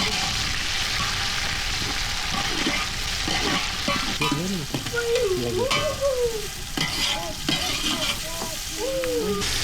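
Food frying and sizzling in a pan over a fire while being stirred, a steady hiss. In the second half, a few short pitched sounds glide up and down over it.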